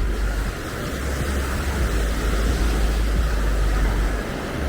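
Wind buffeting the microphone in a steady low rumble, over a constant wash of outdoor noise. The rumble dips briefly about half a second in and again near the end.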